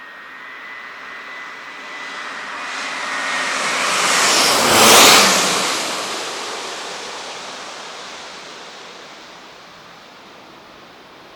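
Airbus A350-900 jetliner on final approach passing low directly overhead, its Rolls-Royce Trent XWB engines building to a loud peak about five seconds in and then fading away. A thin high whine is heard in the first few seconds as it nears.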